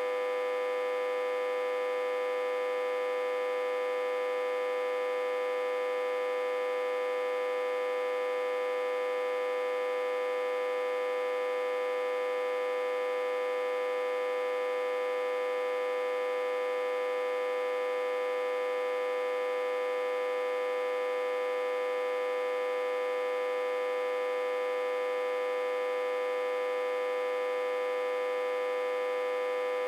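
Autotransformer humming steadily, reverse-connected to a step-down transformer with about 60–80 V on its input. It is one unchanging, fairly high-pitched hum with a buzzy edge of overtones.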